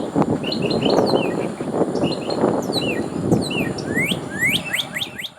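Songbirds chirping and singing, with a quickening run of rising, whistled notes about four seconds in, over strong wind rumble on the microphone.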